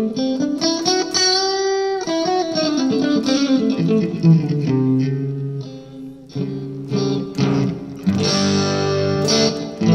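Electric guitar with single-coil pickups, played on the neck pickup through a 2-watt single 6AF11 Compactron valve amplifier set for light overdrive, ringing chords and picked notes.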